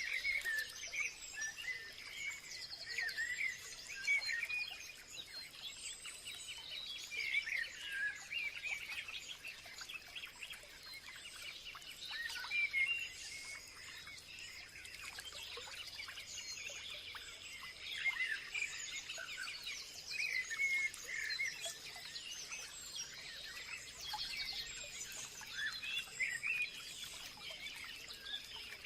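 Several wild birds chirping and singing in overlapping short calls and trills, with a steady high-pitched hum underneath.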